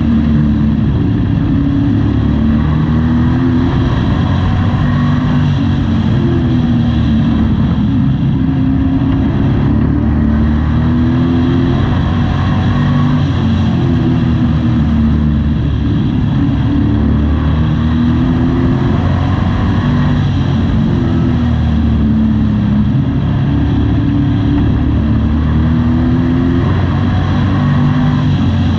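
Race truck engine heard from inside the cab on track, its pitch repeatedly rising and falling as the throttle comes off and back on through the corners.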